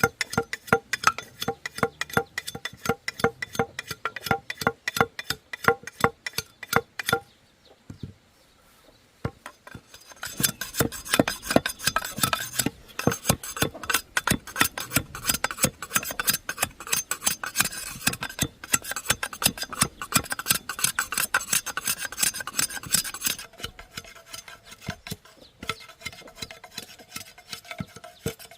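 A hand tool rasping back and forth on bamboo in steady repeated strokes, about three a second at first, each stroke with a slight ringing tone from the hollow cane. After a pause of a few seconds the strokes come faster and denser, then lighter near the end.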